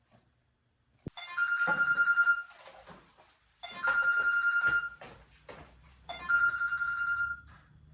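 A telephone ringing: three rings of about a second each on a steady high tone, repeating every two and a half seconds or so.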